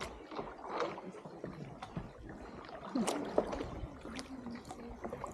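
Boat paddles dipping and splashing in the river water, irregular splashes and light knocks against a steady lapping of water, with faint voices in the background.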